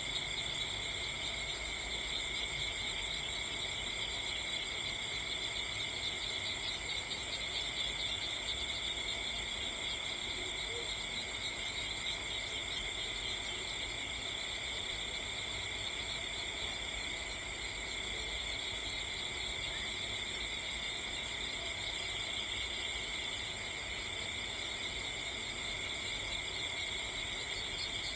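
Steady chorus of crickets trilling without a break, in several high pitches at once, over a faint low background hiss.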